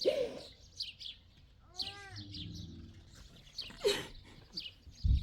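Small birds chirping over and over, with a short wavering pitched call about two seconds in and a low thump near the end.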